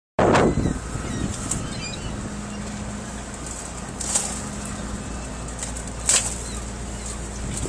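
Boat engine running steadily under several short sharp slaps a couple of seconds apart, as chum salmon are thrown during an offload from a gillnetter.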